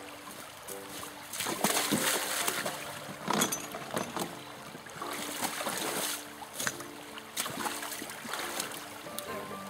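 Water splashing and pouring in uneven surges, loudest from about a second and a half in, as gold dredge concentrates are washed out during cleanup, over background music with short repeating notes.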